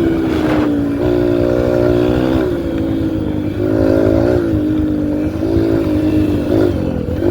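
2003 Yamaha TTR125L's single-cylinder four-stroke engine running while ridden. Its pitch rises and falls a few times as the throttle is opened and eased.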